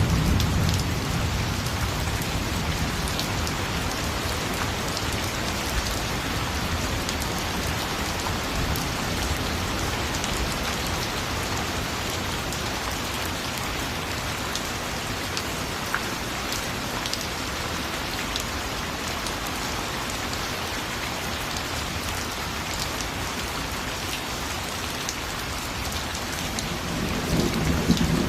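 Steady rain falling, with scattered drop ticks. A low thunder rumble dies away in the first second, and another begins to build near the end.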